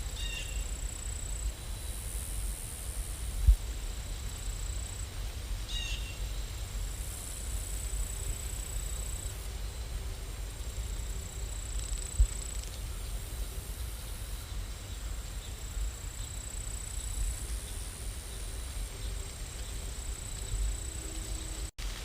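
Steady rain-sound background track heard as a low, even rumble of noise, with a faint high whine that comes and goes.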